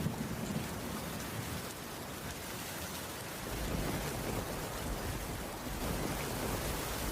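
Heavy rain falling steadily, with a low rumble of thunder underneath that eases in the middle and grows again in the second half.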